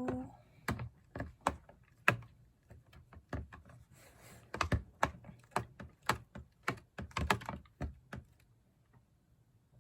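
A utensil clicking and tapping irregularly against a container while milk and yogurt are stirred together, stopping near the end.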